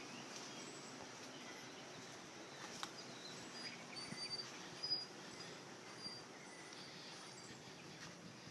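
Faint outdoor background: a steady low hum of noise with scattered short, high bird chirps and a couple of small clicks.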